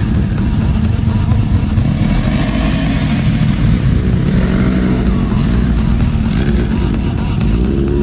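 Motorcycle engines running and revving, the pitch rising and falling.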